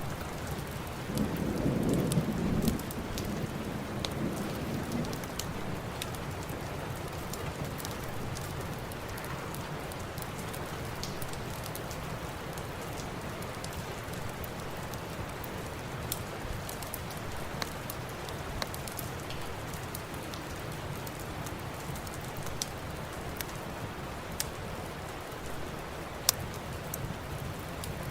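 Steady rain with scattered sharp crackles from a wood fire, and a low rumble of thunder from about one to three seconds in that dies away after a few seconds.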